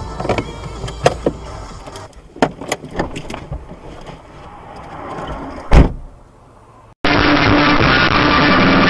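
Car interior noise on a dashcam recording: several sharp knocks and clicks in the first few seconds, then one heavy thump near six seconds in. Music starts suddenly about seven seconds in.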